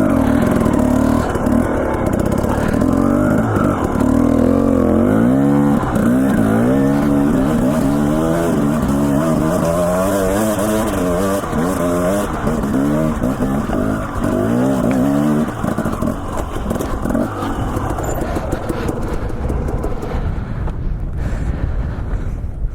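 Dirt bike engine running on a trail ride, the throttle opening and closing so the pitch rises and falls again and again through the middle, then settling to a lower, rougher running after about fifteen seconds.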